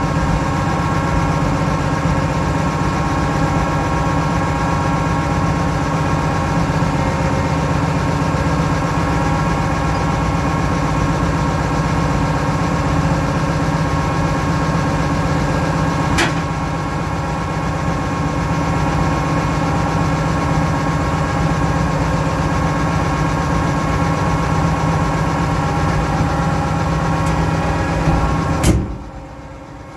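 Oliver 1650 tractor engine running steadily. There is a sharp click about halfway through and a louder click near the end, after which the sound drops away.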